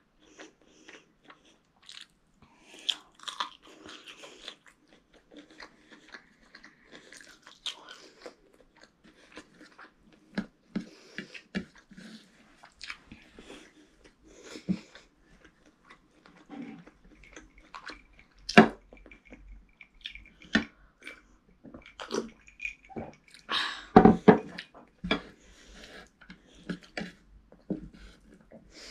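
A child chewing and smacking his lips while eating rice and chicken curry by hand: a close, irregular run of soft mouth clicks, with a few sharper smacks in the second half.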